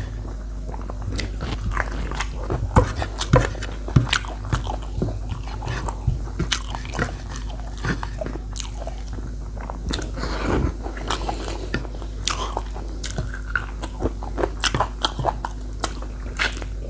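Close-miked eating sounds: a person biting and chewing spicy chicken feet, a steady run of irregular crisp crunches and wet clicks. A steady low hum sits underneath.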